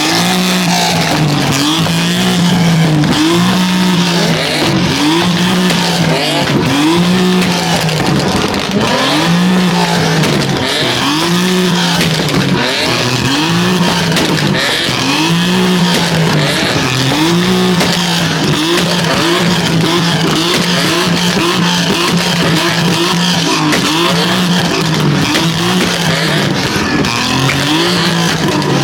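A car doing donuts with its tires squealing. Its engine note rises and falls about once a second, steadier for a few seconds past the middle, with a continuous tire squeal over it.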